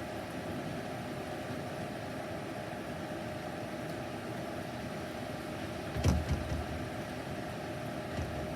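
Heavy thunderstorm: a steady hiss of rain, then about six seconds in a sharp, close thunder crack followed by a second of low rumbling, with another smaller rumble near the end.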